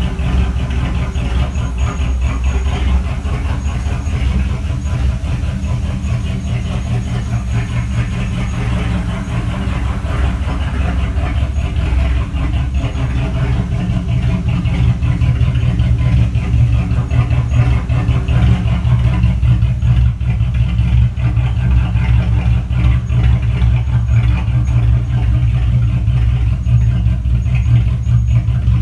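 1982 Pontiac Trans Am's V8 engine idling steadily, a little louder from about halfway through.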